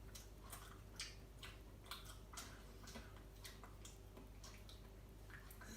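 Near silence: faint, regular ticks about twice a second over a low steady hum.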